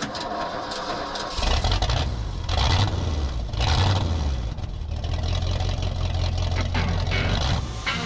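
An engine running, its low rumble building up sharply about a second and a half in and then holding fairly steady.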